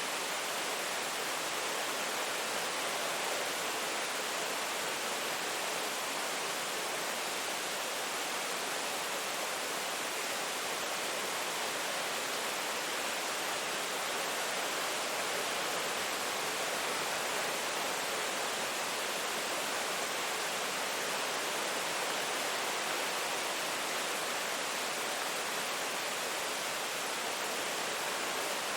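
Steady rain falling, a dense even hiss with no individual drops or thunder standing out.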